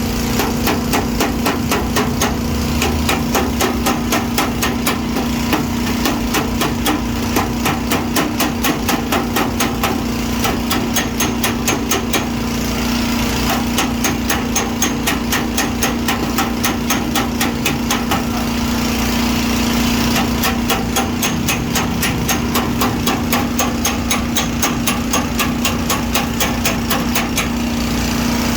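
Rapid, even hammer taps on car-body sheet metal, about four to five strikes a second with a brief pause partway through, as dents are beaten out of a panel. A steady machine hum runs underneath.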